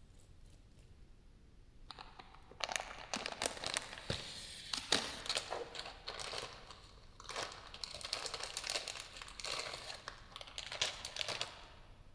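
Close-up crinkling and crackling of a crinkly material being handled, in three stretches of dense small clicks that begin after about two seconds of quiet.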